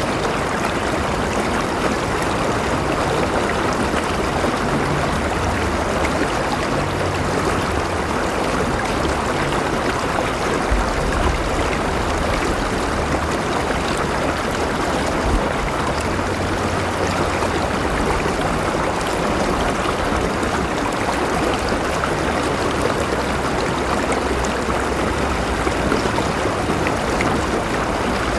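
River water flowing steadily, a dense even rush with low rumbling underneath.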